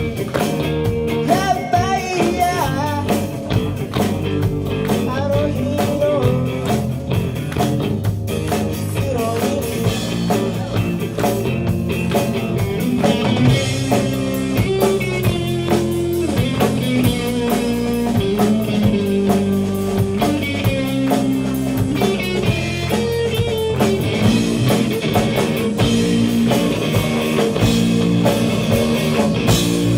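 Rock music with electric guitar and a drum kit playing steadily, with a singing voice early on.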